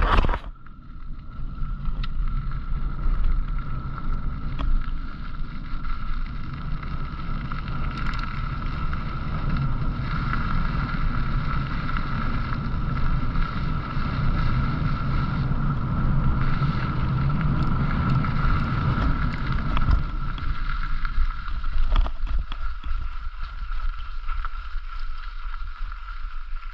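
Bicycle ride heard from a rider-worn camera: wind buffeting the microphone and a continuous low rumble from riding, with a steady high whine over it. The rumble eases about 22 seconds in.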